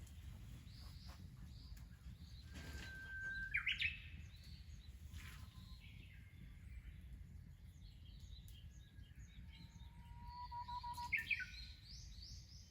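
Songbirds singing. Twice, about three and a half seconds in and again near eleven seconds, a bird holds a clear whistled note and ends it with a quick rising-and-falling flourish, with fainter chirps between. A steady low rumble of background noise lies underneath.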